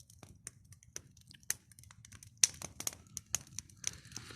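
Wood campfire crackling: irregular sharp snaps and pops, several louder ones in the second half.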